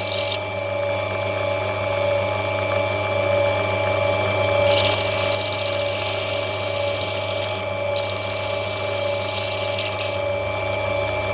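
Lapidary grinding wheel running steadily with a motor hum, as an opal is pressed against it and rubbed back: the high grinding hiss of stone on the wheel stops just after the start, comes back about five seconds in, breaks off briefly near eight seconds and stops again near ten seconds.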